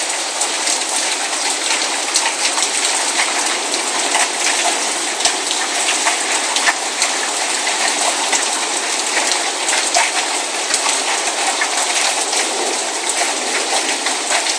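Steady rain falling, a dense hiss with many small drop ticks striking nearby surfaces.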